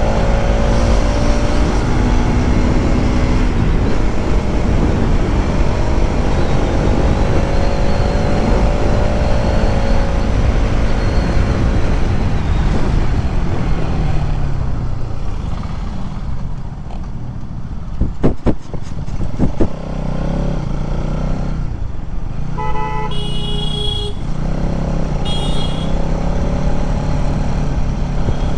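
Bajaj Pulsar NS200 motorcycle engine running at road speed under heavy wind rumble, its pitch rising and falling with the throttle. Around the middle it eases off and a few sharp knocks sound, then a vehicle horn honks twice near the end.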